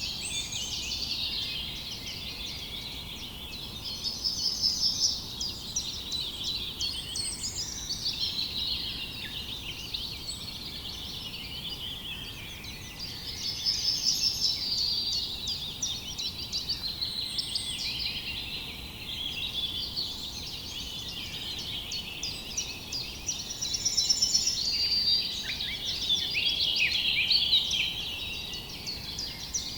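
A chorus of many songbirds chirping and trilling together, the calls overlapping densely and swelling louder several times.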